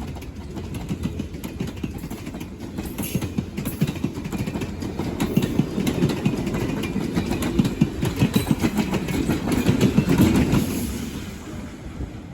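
Train passing close by: a low rumble with rapid clicking of wheels over the rails, growing louder to a peak and then fading near the end.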